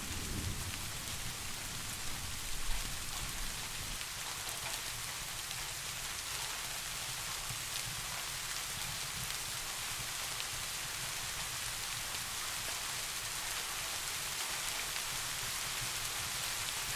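Steady rain falling, with a low, distant rumble of thunder dying away over the first few seconds.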